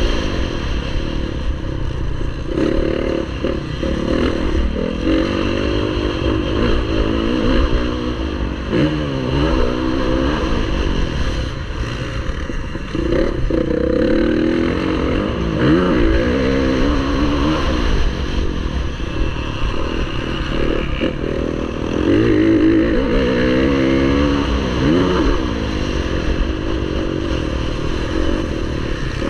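Motocross bike engine racing around the track, its pitch climbing and dropping over and over as the throttle is opened and shut through the turns and jumps, with a constant low rumble underneath.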